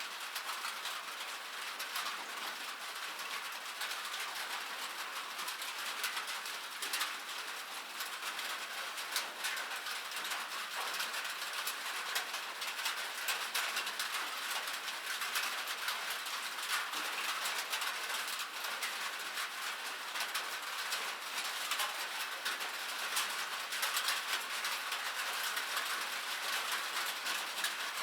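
Steady rain falling on a metal surface: a dense patter of drops with many sharp, tinny ticks over an even hiss.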